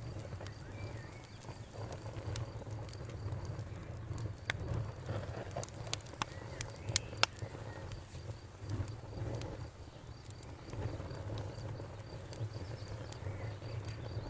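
Wood campfire crackling with frequent sharp pops over a low steady rumble of the flames; the loudest pops come about seven seconds in. Crickets chirp steadily and faintly in the background.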